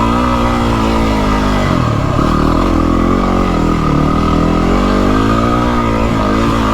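Yamaha WR250R's single-cylinder four-stroke engine running steadily, its pitch dropping and rising again twice as the throttle is eased off and reopened.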